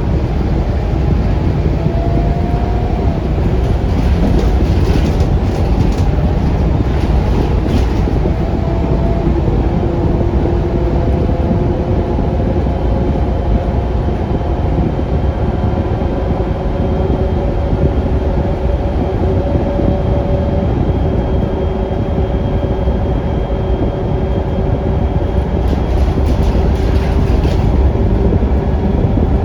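Cabin sound aboard a Scania K360UA articulated city bus under way: steady rumble of its Scania DC9 engine and road noise, with a faint whine from the ZF Ecolife automatic transmission that slowly rises in pitch as the bus gathers speed. A few brief sharp rattles come through several seconds in and again near the end.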